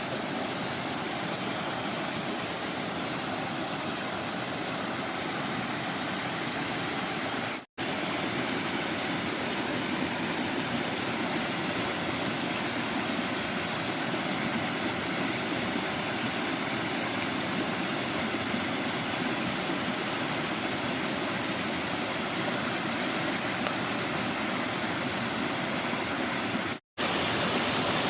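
Steady rushing of stream water, breaking off for an instant twice.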